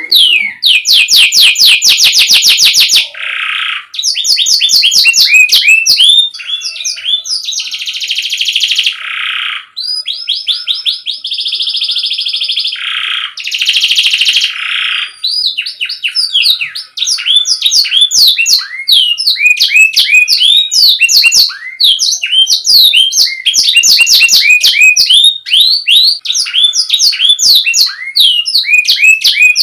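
Domestic canary singing a continuous, loud song of fast trills and rapid repeated chirps, with several sustained buzzy rolls in the middle.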